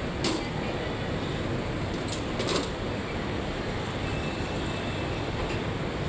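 Tractor engine running steadily, with a couple of short sharp knocks, one just after the start and one about two and a half seconds in.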